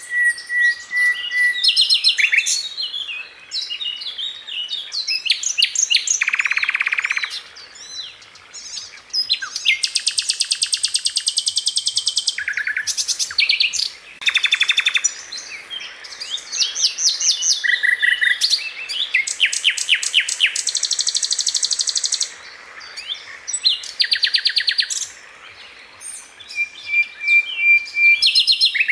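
Sikatan Londo, a flycatcher, singing a fast, varied song. Bursts of rapid-fire trills made of quickly repeated notes alternate with short high chattering notes and a few level whistled notes.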